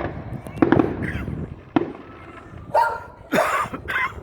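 Firecrackers going off: a string of sharp, irregular bangs, with a few longer noisy bursts about three seconds in.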